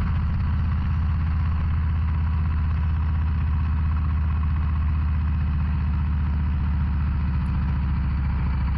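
Harley-Davidson Low Rider ST's Milwaukee-Eight 117 V-twin running at a steady, even engine note while the bike is ridden.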